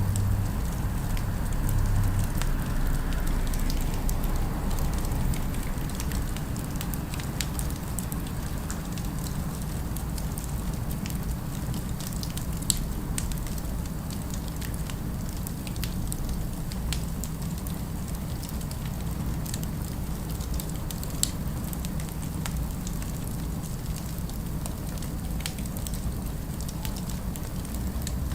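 Fireplace crackling: scattered sharp pops and snaps over a steady low rumble of distant city ambience.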